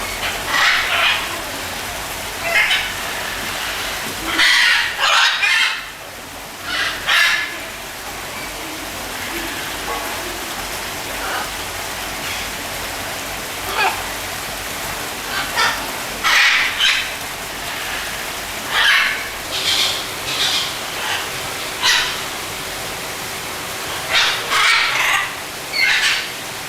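A bird calling over and over in short, harsh squawks at irregular intervals, over a steady rushing noise like rain or running water.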